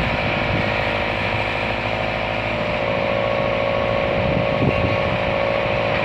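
Backhoe's diesel engine running steadily under load as the machine reverses, with a brief clunk about four and a half seconds in.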